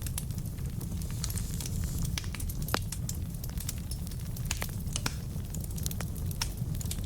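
Logs burning in a fireplace, crackling with irregular sharp pops over a steady low rumble, one pop louder than the rest near the middle.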